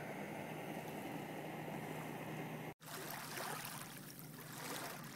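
Steady rushing outdoor noise of water and wind on the shoreline, with a faint low hum in the first part. It drops out for an instant a little under three seconds in, then carries on with a slightly different wash.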